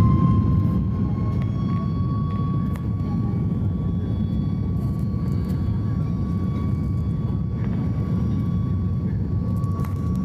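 Airliner engine noise: a steady low rumble with a steady high whine that rises slightly about a second in and then holds.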